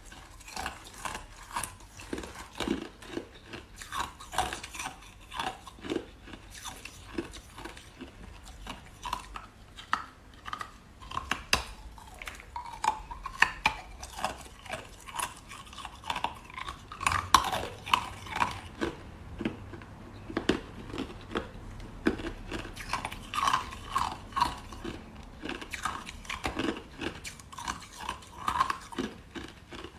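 Close-miked chewing of crunchy crushed ice: a continuous run of sharp, irregular crunches, several a second.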